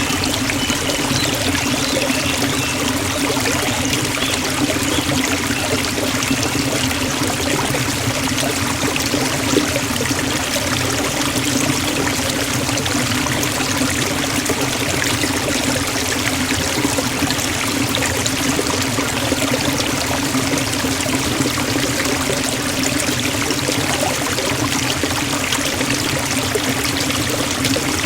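Forest waterfall: water falling and splashing at an even, unbroken level.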